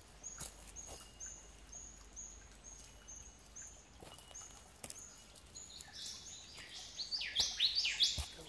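Forest birds calling: a short high chirp repeats about twice a second, and about six seconds in a louder run of quick, falling whistled notes from another bird joins it.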